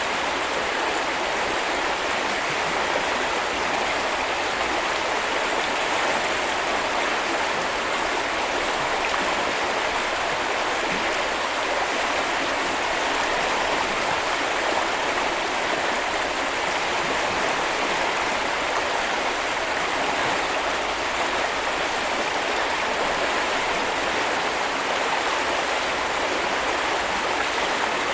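River water flowing in a steady, even rush with no change.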